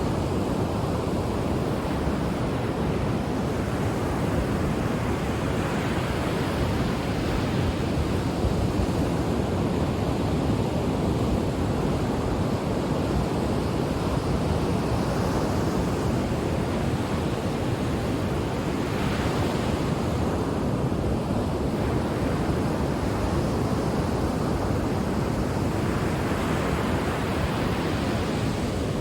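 Ocean surf: waves breaking and washing onto the shore in a continuous rush, with a brighter hiss swelling up several times as waves wash in.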